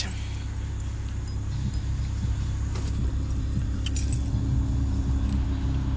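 Steady low rumble of a car's cabin, growing slightly louder, with a few light clicks about halfway through.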